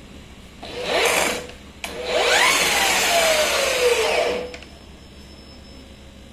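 Brushless motor of a Makita DUR369A 36-volt cordless grass trimmer given a short burst, then run for about two and a half seconds. Its whine rises in pitch as it spins up and falls as it winds down after release, with a click between the two runs.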